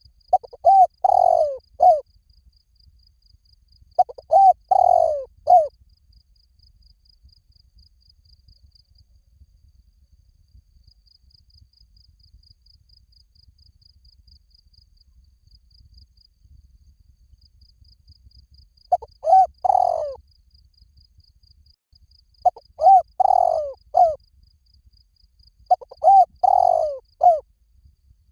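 Spotted dove cooing: five phrases of three or four low coos each. Two come close together at the start, then there is a long pause, and three more follow near the end.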